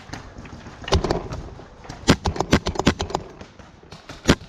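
Paintball markers firing: a couple of shots about a second in, then a fast string of about seven shots a second, and two more near the end.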